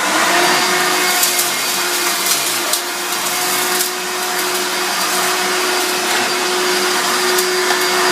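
Hoover Elite upright vacuum cleaner running steadily with its motor whine, with a few brief crackles in the first few seconds. It is switched off at the very end.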